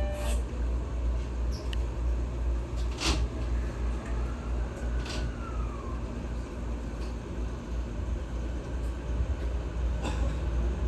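Tokyo Waterfront Area Rapid Transit 70-000 series electric train running along the line: a steady low rumble of the wheels on the track, with a few sharp clicks and a brief falling whine about five seconds in.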